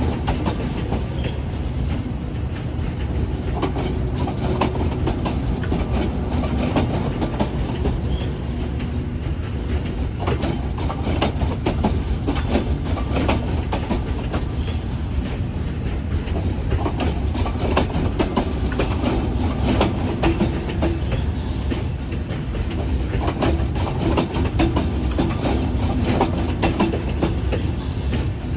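Train running on the rails: a steady low rumble with rapid, irregular clicking of wheels over rail joints and a faint steady hum under it.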